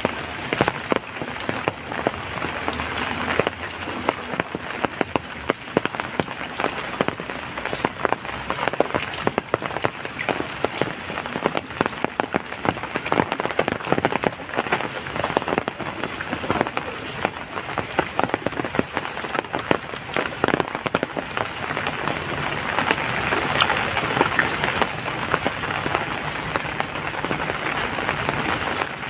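Steady rain falling, with many separate drops tapping sharply on a nearby surface over the even wash of rainfall; it swells slightly a little after the twenty-second mark.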